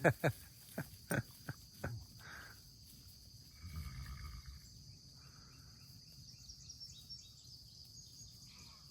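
Outdoor summer insects making a steady high-pitched buzz. A few short sharp knocks or thumps come in the first two seconds, and a soft rustle about four seconds in.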